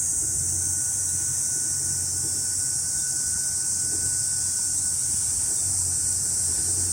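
Summer cicadas in the forest trees droning in a steady, high-pitched chorus that does not let up.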